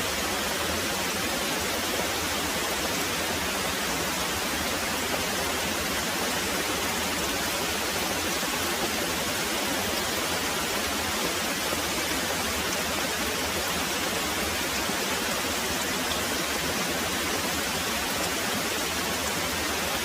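Very heavy rain pouring steadily, an even hiss with no let-up or thunder.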